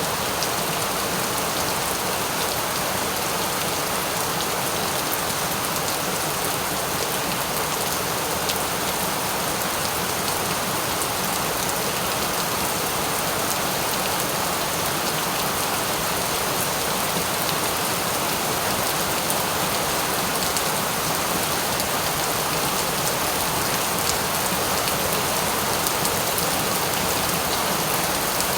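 Steady rain falling and pattering on a surface, an even hiss with fine drop ticks that stays constant throughout.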